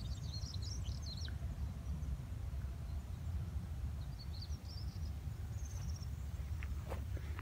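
Small birds chirping in short, high phrases over a steady low rumble, with a few faint clicks near the end.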